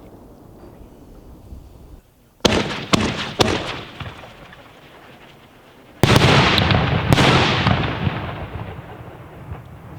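Aerial fireworks: three sharp bangs in quick succession with crackle between them, then about six seconds in a sudden loud burst of dense crackling with another bang, fading away over a few seconds.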